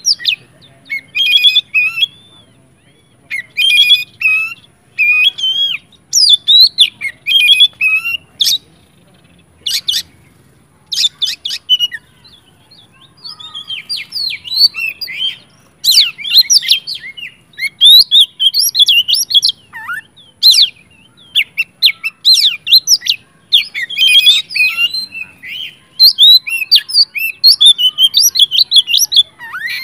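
Oriental magpie-robin (kacer) singing loudly in full, insistent song: rapid, varied whistled and chattering phrases in bursts of a second or two, with short pauses between.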